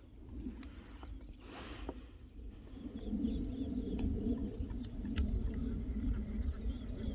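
Small birds chirping over and over in short high calls, over a low rumble that grows louder about three seconds in, with a brief hiss near the two-second mark.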